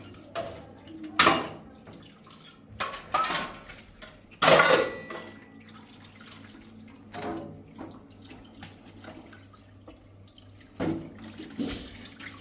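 Dishes and pots knocking together at a sink with water running; a handful of sharp clanks, the loudest about four and a half seconds in, leaving a brief ring.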